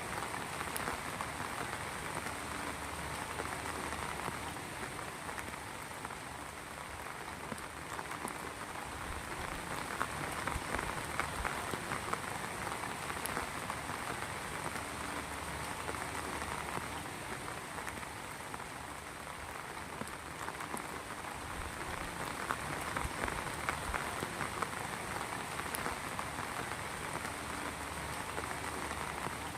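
Steady rain falling, a dense patter of drops that swells and eases a little every ten seconds or so.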